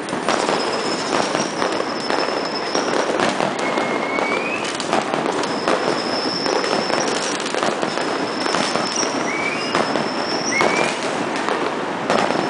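A dense barrage of fireworks and firecrackers, with a continuous crackle of bangs and repeated high whistles from whistling rockets, each about a second long and rising at its end.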